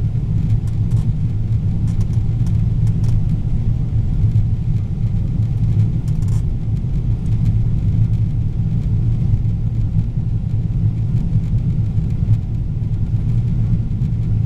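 Steady low rumble inside the cabin of a Boeing 777-300ER airliner: engine and airflow noise as it comes in to land, with a few faint clicks.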